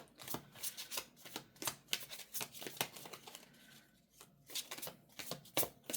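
A deck of tarot cards being shuffled and handled: a quick, irregular run of card flicks and slaps, with a short lull about four seconds in.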